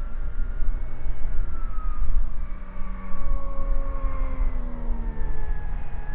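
Electric ducted-fan RC jet flying, its fan whine gliding slowly down and up in pitch as it passes, with wind buffeting the microphone.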